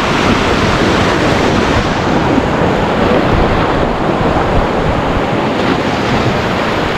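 White-water river rapids rushing loudly and steadily, with wind buffeting a helmet-mounted GoPro's microphone.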